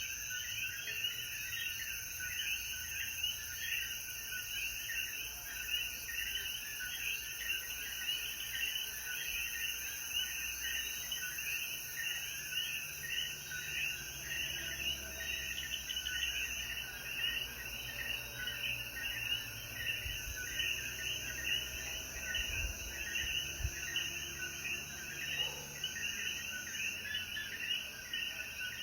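Dense night chorus of coquí frogs, many overlapping short rising calls, over a steady high insect buzz.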